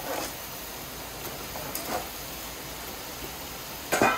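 Chicken pieces going into a pan of hot oil with yogurt and ginger-garlic paste: a steady frying sizzle with a few sharp knocks, the loudest just before the end.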